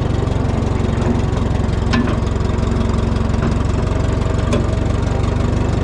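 Farm tractor engine idling steadily nearby, with a few light clicks over it.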